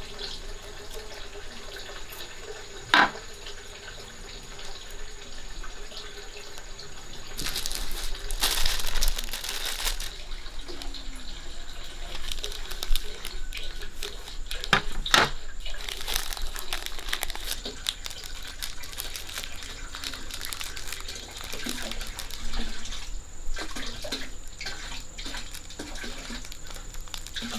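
Water running from a tap into a sink, loudest for a couple of seconds about eight seconds in, with scattered sharp knocks and clatter.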